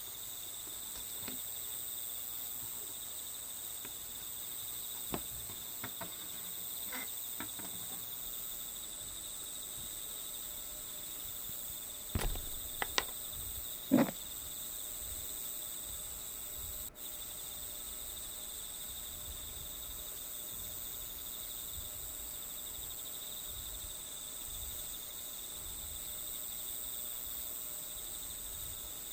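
Steady chirring of crickets or similar insects, a continuous high drone. A few small clicks and knocks sound over it, loudest about twelve to fourteen seconds in.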